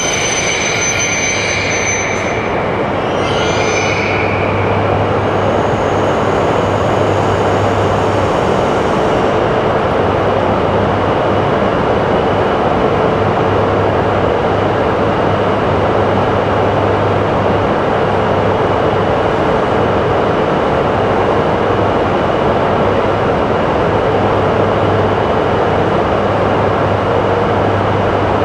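E5 and E3 series Shinkansen trainsets, coupled together, running through the station at low speed with a steady rumble of wheels and motors. High-pitched wheel squeal comes and goes in the first few seconds, then fades.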